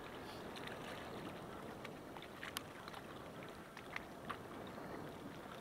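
Steady wind and wave-chop noise across the lake water, with a few small sharp clicks scattered through it.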